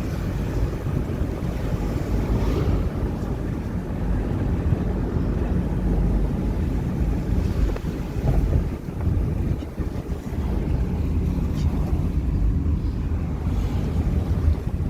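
Wind buffeting the microphone: a steady low rumbling noise that rises and falls unevenly throughout.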